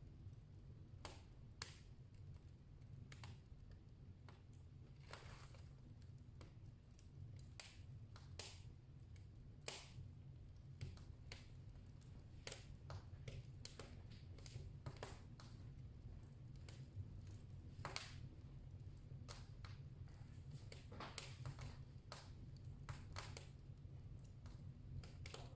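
Wood fire crackling faintly in a fireplace: irregular sharp snaps and pops over a low steady rumble.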